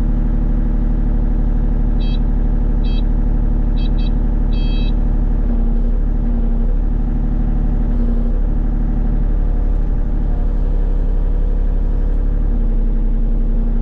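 Excavator's diesel engine running steadily and working the hydraulics as an auger is driven into frosted ground. The engine tone shifts under load around the middle. Several short high beeps sound between about two and five seconds in.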